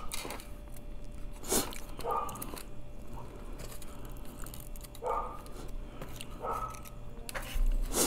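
Close-miked eating sounds of a person chewing sushi: short mouth sounds and a couple of sharp clicks, one about a second and a half in and one near the end.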